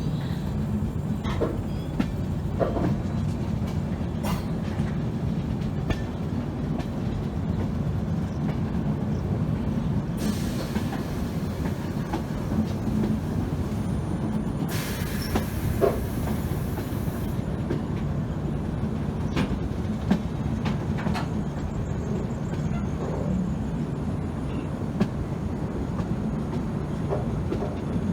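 Indian Railways passenger train running, a steady rumble of wheels on the track with scattered clicks and knocks. Two spells of hiss come about ten and fifteen seconds in.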